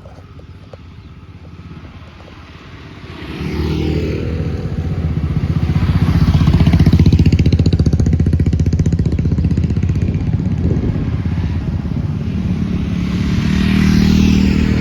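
Motorcycle engine pulling away and accelerating. It is quiet at first, comes up loud about three seconds in, and revs up again near the end.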